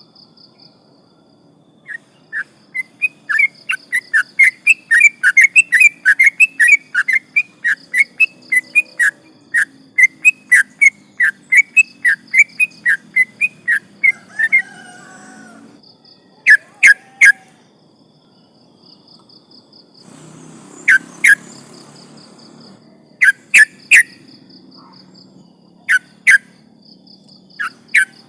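Yellow-vented bulbul singing: a long, rapid run of loud chirping notes, about three a second, for some twelve seconds, then short bursts of two or three notes a few seconds apart. A faint, steady, pulsing insect trill runs underneath.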